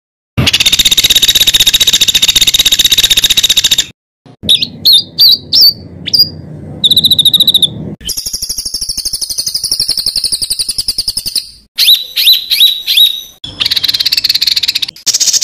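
Songbird song in harsh, rapid phrases, in spliced segments with brief gaps. A fast buzzy trill comes first, then a run of sharp upward-sweeping chirps and a short whistle, a long dense high trill, more sharp chirps, and a rattling trill near the end.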